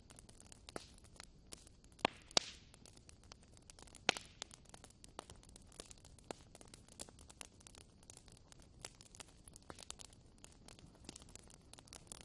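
Wood fire burning in a fireplace: a soft steady hiss with irregular crackles and pops, a few louder snaps about two and four seconds in.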